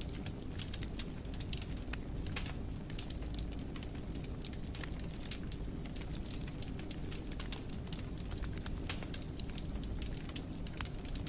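Wood fire crackling in a fireplace: frequent sharp irregular pops and snaps over a steady low rumble of the flames.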